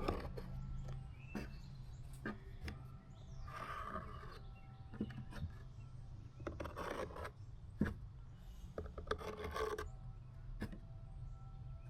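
Hand tool scraping and rasping excess glue off a repaired plastic tail light, in three short bouts with light clicks between.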